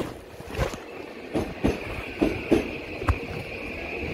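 Tobu Railway train running, heard from inside the carriage: a steady high whine sets in about a second in, over scattered knocks and thuds of the wheels and car body on the track.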